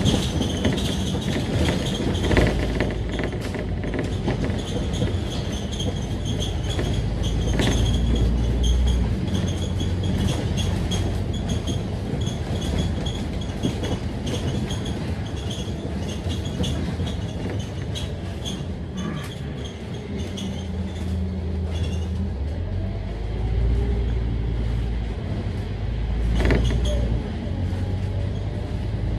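Scania K310UD double-decker bus running along, its engine note swelling and easing as it pulls away and slows, with many small rattles and clicks from the body.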